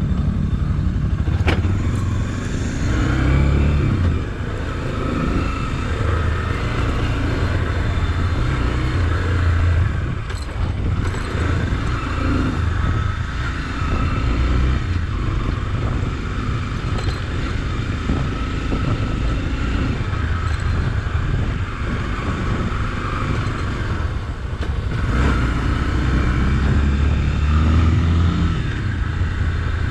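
Honda XRE300's single-cylinder engine running as the motorcycle is ridden over a dirt trail, its note rising and falling with the throttle.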